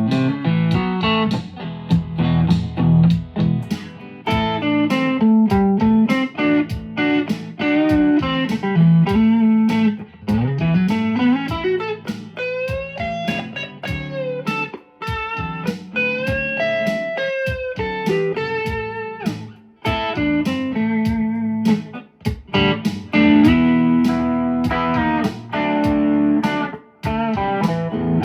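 Fender Stratocaster electric guitar played loud through a Fender 4x10 combo amp, mixing chords and single-note lines. About ten seconds in the pitch slides up, followed by bent notes.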